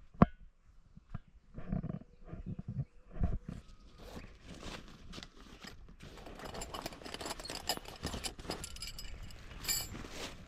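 Handling sounds from pitching a canvas campfire windscreen: one sharp knock just after the start and a few dull thumps, then steady rustling and scuffing of fabric and gear with small clicks, and a brighter rustle near the end.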